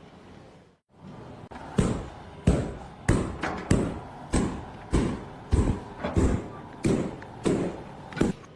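A steady series of about eleven heavy thuds, a little under two a second, each dying away quickly.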